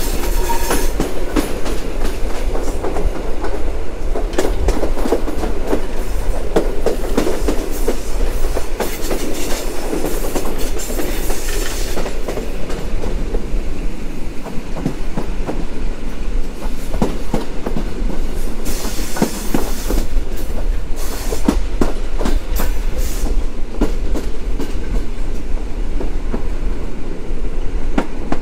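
EN57 electric multiple unit on the move, its wheels clicking over rail joints and points with a steady running rumble. There is a short hiss about nineteen seconds in.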